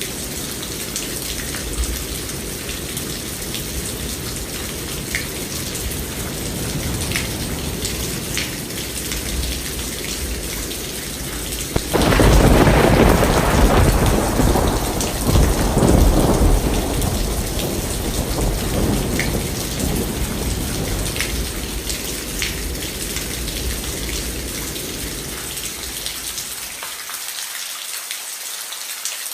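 Steady rain falling, with a clap of thunder breaking suddenly about twelve seconds in, loudest for a few seconds, then rumbling and dying away over the next ten seconds or so.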